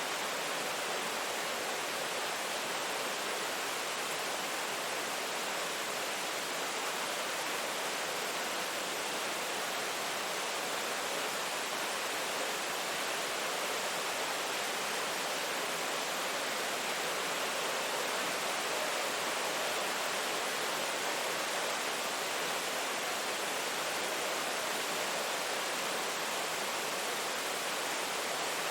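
Steady, even hiss of rain falling, with no separate drops or thunder standing out.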